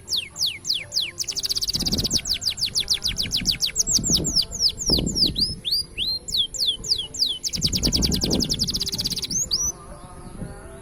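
Green canary singing: fast trills of rapidly repeated notes alternating with slower runs of downward-sweeping whistled notes, with a brief pause in the song near the end.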